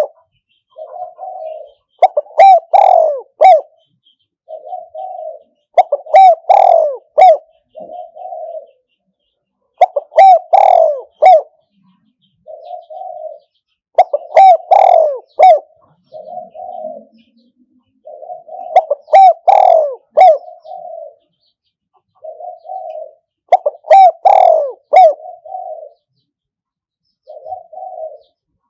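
Spotted dove cooing, a decoy call for luring wild doves to a trap: a loud, multi-note cooing phrase about every four seconds, with softer coos in between.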